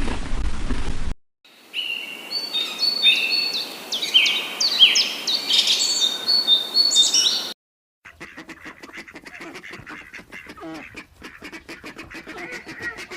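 Birds chirping: many quick, high calls that each sweep downward, overlapping in a busy chorus for about six seconds. After a short break comes a fainter stretch of rapid clicking and soft calls.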